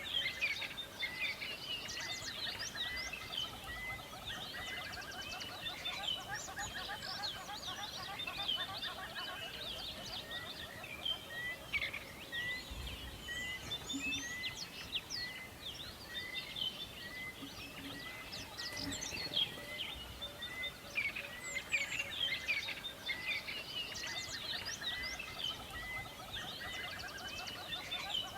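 A dense chorus of many songbirds chirping and trilling at once, one of them repeating a short note about twice a second.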